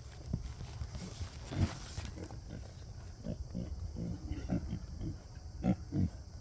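Young pigs grunting at a feed trough: a run of short, low grunts in quick succession, with a louder, noisier burst about a second and a half in.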